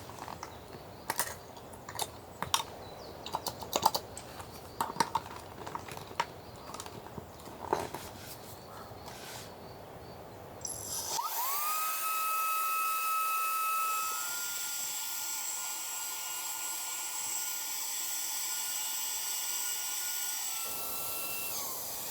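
Scattered clicks and knocks of gear being handled, then about halfway through an electric air pump starts with a rising whine, runs steadily while inflating, and winds down with a falling whine near the end.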